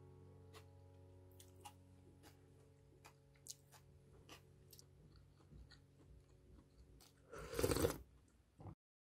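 A person eating burdock rice: faint chewing and crunching with scattered light clicks, and a louder crunchy burst about seven and a half seconds in.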